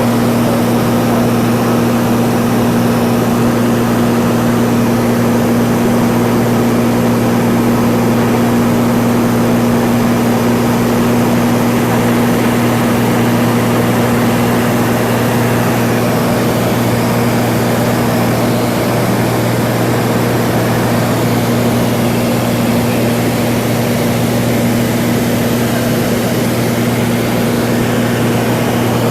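Cessna 182's single piston engine and propeller droning steadily in cruise flight, an even low hum with no change in power.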